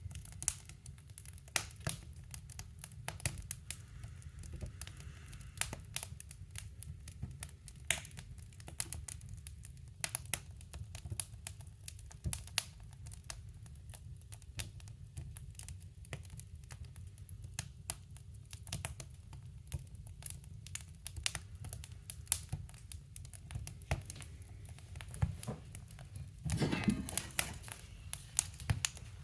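Wood fire crackling in a woodstove: irregular sharp pops and snaps over a low steady hum, with a brief louder rustle near the end.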